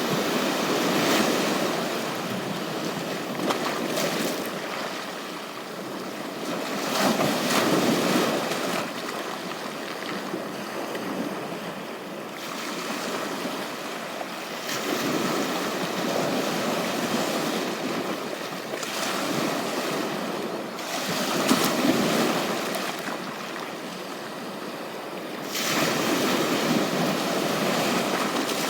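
Ocean waves breaking and washing up the shore, swelling and fading in surges every several seconds, with some wind on the microphone.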